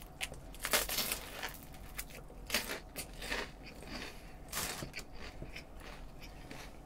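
A person chewing a mouthful of ciabatta bread topped with chicken fried rice: irregular crunching and mouth sounds, a few strokes a second at uneven spacing.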